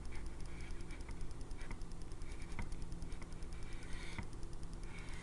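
Pencil scratching on paper in short strokes, with a few light ticks, over a low steady hum.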